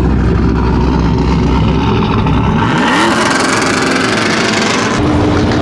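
Truck engine running and revving, with a hissing, noisy stretch in the middle. The sound changes abruptly about five seconds in.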